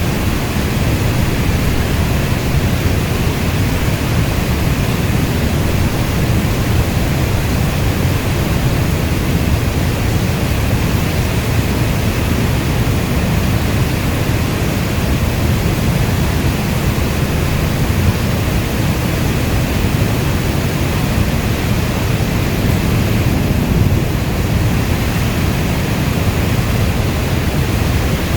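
Steady heavy rain with no pauses: a dense, even hiss weighted toward a deep low rumble, with no separate drops or thunder claps standing out.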